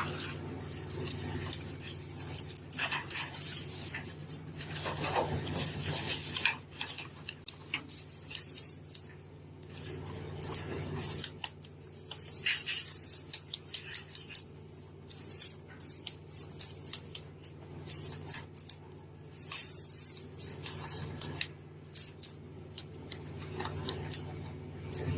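Steady low engine hum with irregular metallic clinks and knocks over it, like gear being handled on a boat deck.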